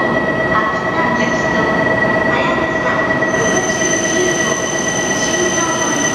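E5-series Shinkansen standing at the platform with its doors open, its on-board equipment giving a steady electrical whine over a constant hum; a higher whine joins about three seconds in.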